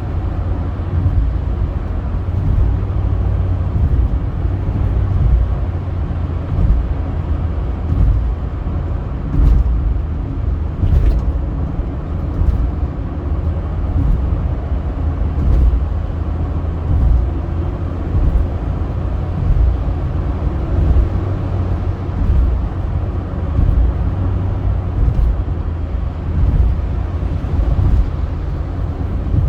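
Car driving on a highway: steady low rumble of engine and road noise.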